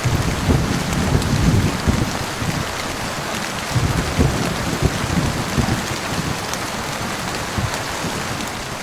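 Heavy rain falling steadily, with low rolls of thunder rumbling under it in the first couple of seconds and again around four seconds in.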